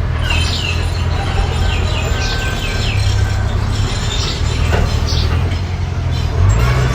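Mini bulldozer's engine running steadily, a deep drone that dips briefly near the end. Over it come short, high chirping squeaks, most in a quick run in the first few seconds.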